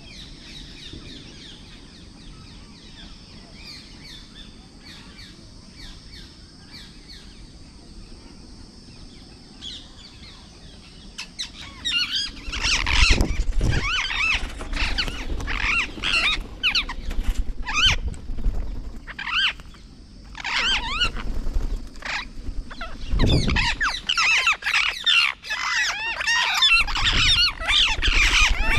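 Parrot squawking: loud, harsh, repeated screeching calls that start about twelve seconds in and come in quick bursts. Before that there are only faint bird chirps, and a few low thumps sound among the calls.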